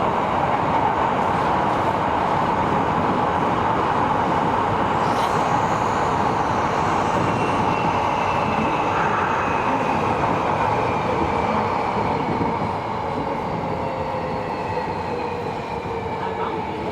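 Tobu 70000 series electric train heard from inside the car while running: steady wheel and rail noise with a strong ringing band. From about halfway, faint whining tones slowly fall in pitch and the noise eases a little near the end.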